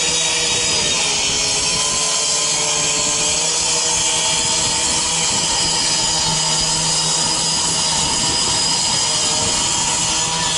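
High-powered circular saw cutting through a car's sheet-metal hood, running steadily at high speed, its pitch wavering slightly as the blade bites. The hood is being cut in half to reach the burning engine, since on fire-damaged cars the latch has typically melted and will not open.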